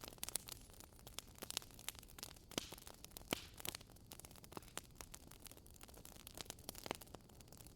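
Wood fire in a fireplace crackling quietly: irregular sharp pops and snaps, several a second with a few louder ones, over a faint steady hiss.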